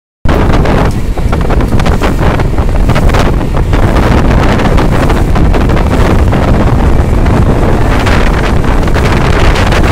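Strong thunderstorm wind buffeting the microphone: loud, continuous wind noise with rapid, irregular gusts.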